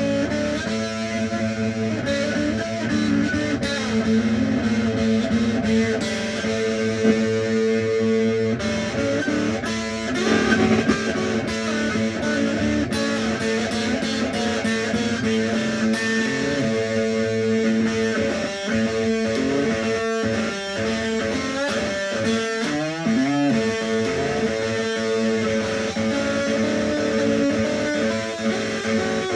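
Electric guitar playing an Indian raga-style boogie, with a melody weaving over a steady drone note.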